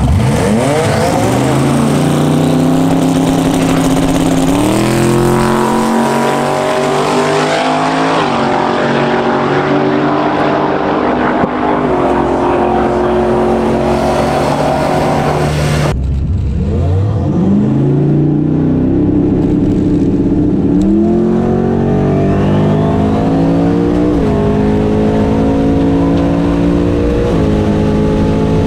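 Twin-turbo 427-cubic-inch Dart LS V8 of a fourth-generation Camaro drag car launching and running a full pass at wide-open throttle, its pitch climbing in a series of steps. About halfway through, the sound cuts abruptly to the same run heard from inside the car, launching and climbing in steps again.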